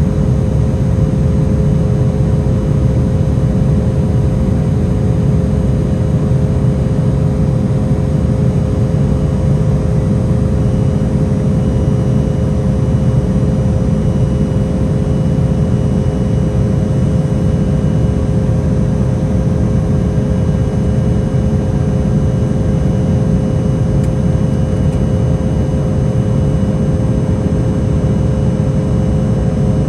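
Steady roar inside the cabin of an Embraer E175 airliner: its GE CF34 turbofan engines and the airflow, a deep rumble with a steady hum on top.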